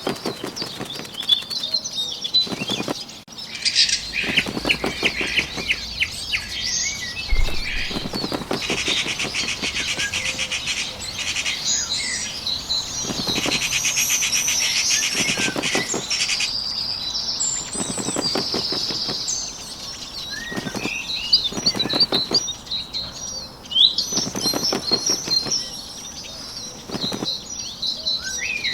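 Sound effect of a bird's wings flapping in repeated flurries of a few seconds each, over a backdrop of small birds chirping and singing.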